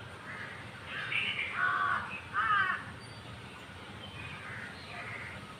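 A corvid calling with two loud, harsh caws about a second apart, with fainter chirping of small birds around it.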